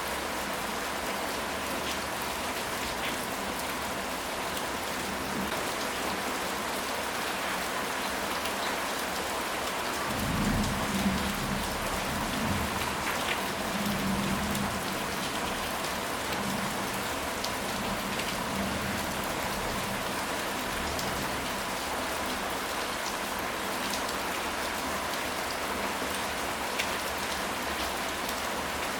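Steady rain falling, with a low rumble of thunder rolling for several seconds starting about ten seconds in.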